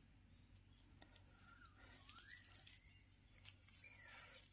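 Faint birdsong: short high chirps repeated every second or two, with a lower gliding note now and then, over soft scattered rustling clicks.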